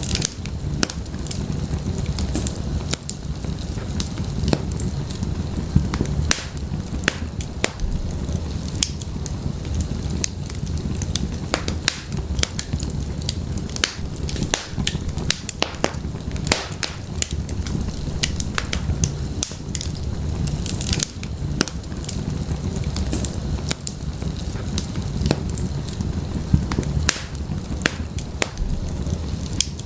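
Wood fire burning in a fireplace: a steady low rumble of flames with frequent sharp, irregular crackles and pops from the burning firewood.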